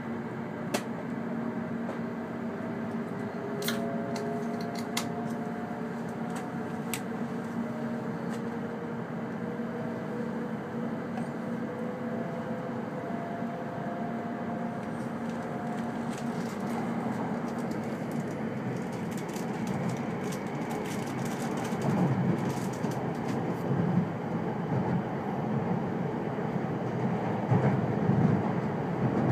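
E2 series Shinkansen accelerating away from a station: the electric traction motors give a whine of several tones that rises slowly in pitch for the first fifteen seconds or so, with a few sharp clicks early on. The running rumble then grows louder as the train gathers speed.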